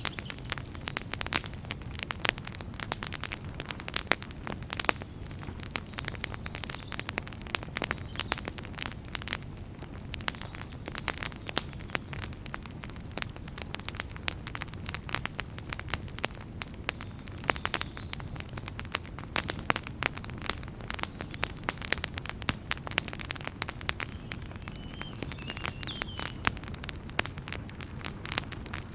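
Fire in a fireplace crackling steadily, with many sharp irregular pops and snaps over a low rumble of flame.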